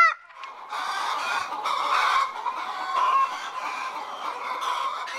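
Chickens clucking in a steady, busy chatter. The tail of a rooster's crow cuts off right at the start.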